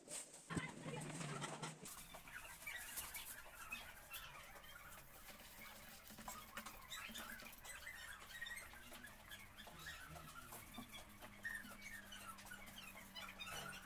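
Faint chirping and twittering of birds, with scattered small clicks and knocks.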